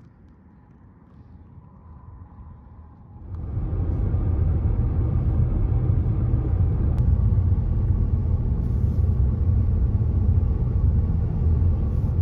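Faint ambience for about three seconds, then an abrupt switch to the steady low rumble of a car driving on the road, with engine and tyre noise.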